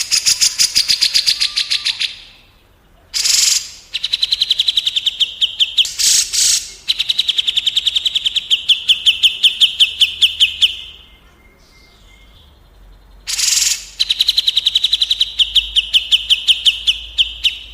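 A songbird giving long, rapid trills of repeated notes that slide slightly downward in pitch, four runs of two to four seconds each, several opened by a short harsh note.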